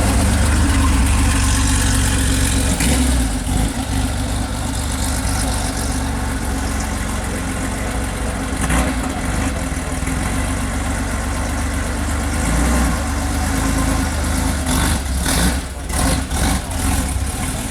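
A car engine idling steadily, with a few short sharp knocks or clicks near the end.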